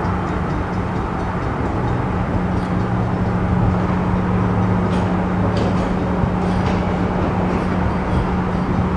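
Train running: a steady rumble with a constant low hum, and a few faint clicks near the end.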